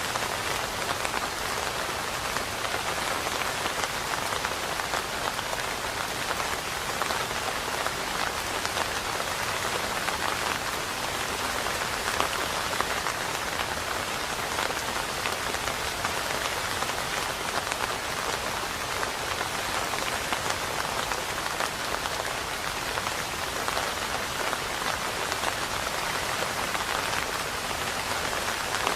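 Steady rain falling, a dense, even hiss of patter with no thunder.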